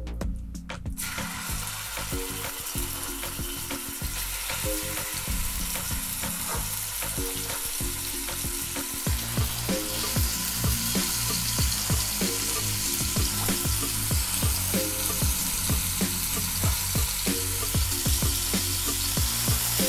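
Marinated chicken pieces sizzling as they shallow-fry in oil in a nonstick pan. The sizzle starts about a second in and grows louder about halfway through as more pieces go in. A wooden spatula knocks against the pan as it works.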